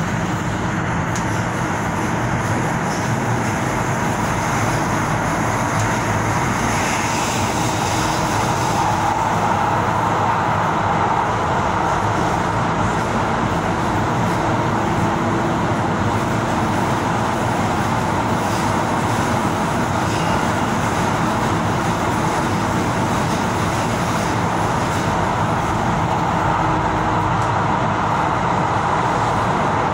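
Tyne and Wear Metro train running at speed, heard from inside the carriage: a steady rumble of wheels on rails with a faint whine.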